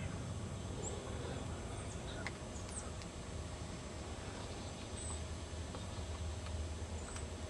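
Short, high bird chirps a couple of seconds apart over a low steady rumble.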